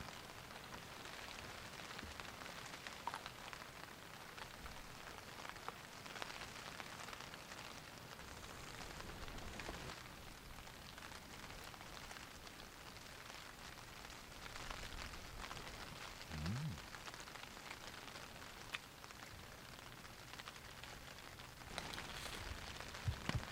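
Steady rain falling, with many small drop ticks. A brief low thump about two-thirds of the way in, and the rain gets louder near the end.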